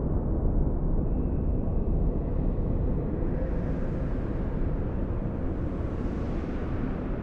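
Blizzard wind blowing: a deep, steady rush. A gust brings in a higher hiss about halfway through, which eases near the end.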